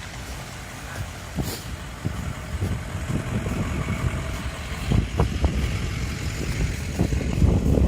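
Motor traffic going by on a city street, a low rumble that grows louder near the end, with a few faint clicks.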